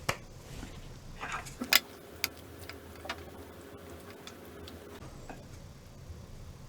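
A handful of separate sharp clicks and knocks, the loudest about a second and a half in, typical of tableware being handled before eating ramen.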